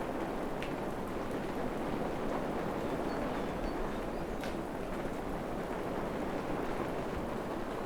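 Steady rain falling: an even, unbroken hiss, with a faint tap or drip now and then.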